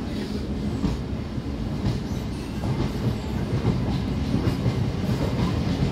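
Electric local train (EMU) pulling out of the station, its coaches running past with a steady low rumble and wheels clattering on the rails, growing slightly louder.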